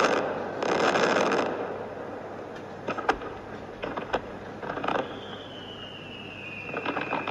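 Aerial fireworks starmine: a dense crackling burst about a second in, then scattered sharp bangs, and a whistle falling slowly in pitch over the last two seconds.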